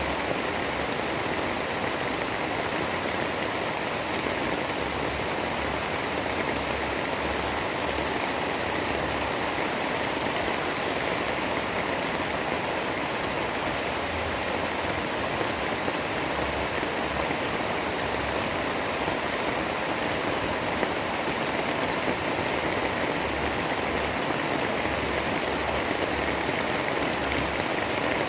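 Storm ambience of wind-driven rain or snow, a steady, even hiss with a faint low flutter underneath.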